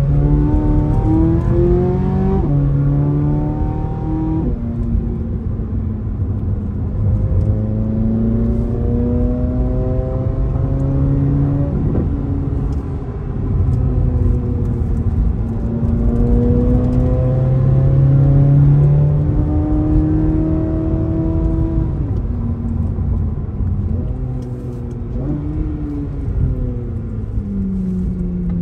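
C8 Corvette Z06's 5.5-litre flat-plane-crank V8 heard from inside the cabin while driving, its pitch climbing and falling back several times, over steady road noise.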